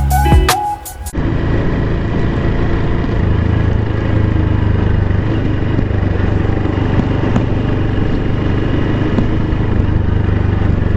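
Honda Super Cub 110's single-cylinder four-stroke engine running steadily under way, with wind and road noise. Background music cuts off about a second in.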